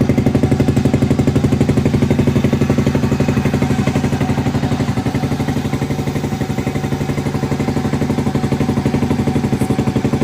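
Yamaha Mio i 125 scooter engine bored up to 160 cc with a JVT 59 mm cylinder kit, running steadily at idle with an even, rapid exhaust beat.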